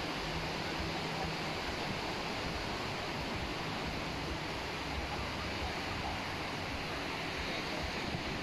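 Steady wash of surf breaking on a beach, with wind on the microphone.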